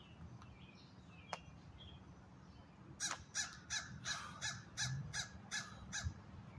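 A bird calling outdoors: a rapid series of about ten loud calls, roughly three a second, starting about three seconds in.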